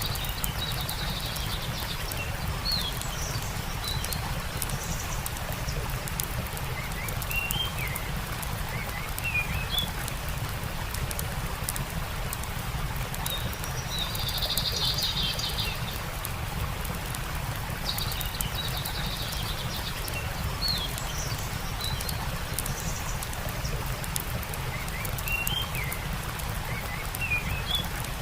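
Campfire crackling with many small pops, under a steady low rumble, while birds give short chirps throughout and a buzzy trill about halfway through.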